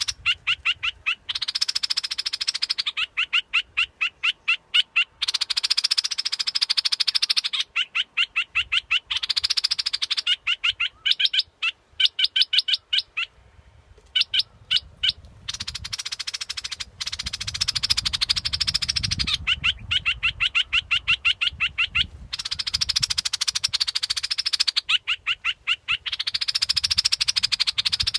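Bulbul decoy call: rapid rattling, buzzy phrases alternating with fast runs of high chips, repeating over and over in a steady loop.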